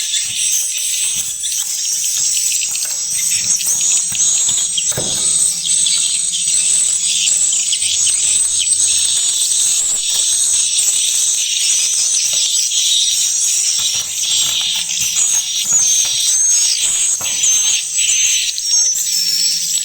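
Many swiftlets chirping and twittering at once inside a swiftlet house: a dense, continuous high-pitched chatter of quick chirps.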